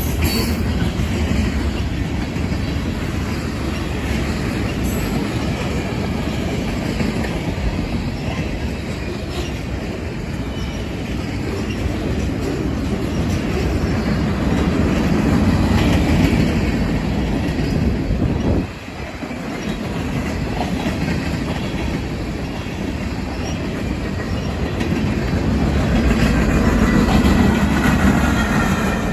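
Freight cars of a CSX manifest train rolling past close by: a steady rumble and clatter of steel wheels on the rails.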